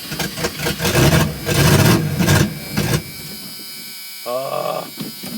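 Starter cranking the 1984 GMC S15's engine for about three seconds without it catching, a cold start after long sitting with the carburetor just primed by one pump of the pedal. A brief rising whine follows a little past four seconds in.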